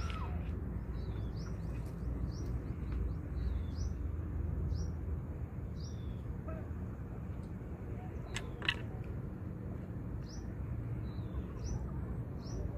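A small bird chirping over and over, short high calls every half second to a second, over a steady low rumble. One sharp click a little under nine seconds in.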